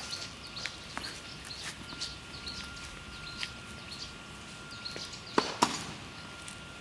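Outdoor ambience with birds chirping again and again, a faint steady high tone, and a few sharp knocks, the loudest two in quick succession about five and a half seconds in.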